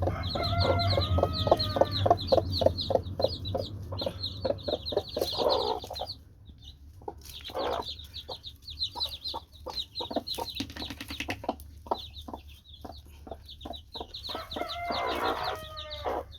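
Chickens: a hen clucking in quick, even strokes while chicks peep continuously. Longer drawn-out calls come near the start and again near the end, with a brief lull in the middle.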